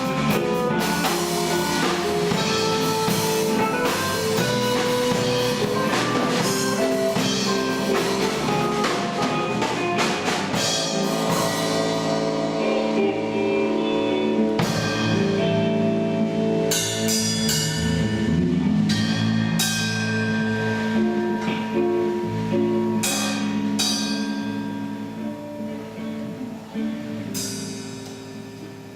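A band playing a song with drum kit, cymbals and guitar, the music dying away over the last few seconds.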